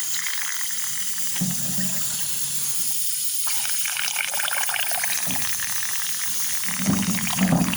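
Compressed air at about three atmospheres leaking inside a D-240 tractor diesel's fuel injection pump, hissing and gurgling through the liquid in it, growing stronger about three and a half seconds in. The leak is from under two plungers, the fault behind the engine's rising oil level.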